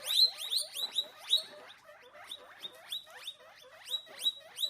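Guinea pig squeaking: a quick series of short, high squeaks, each dropping in pitch, coming thick at first and then more spaced out.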